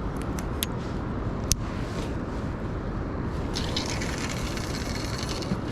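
Fishing line hissing off a carp reel's spool during a cast, a fine rapid ticking rush that starts about three and a half seconds in and stops shortly before the end. A few sharp clicks of the reel and tackle come first, over a steady background rumble.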